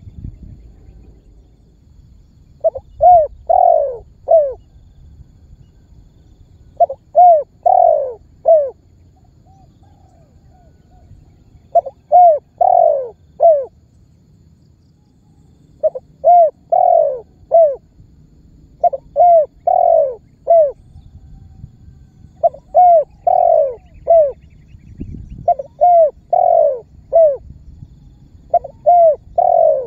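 Spotted dove cooing its calling song: short phrases of about four coos, the third the longest, repeated every three to four seconds. A fainter dove call comes in once, about ten seconds in.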